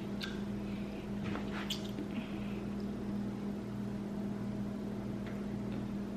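A steady low hum runs throughout, with a few faint mouth clicks and smacks from eating, mostly in the first two seconds and once more near the end.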